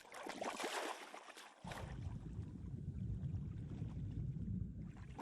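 Water splashing around a boat, then a steady low rumble that cuts in suddenly about one and a half seconds in.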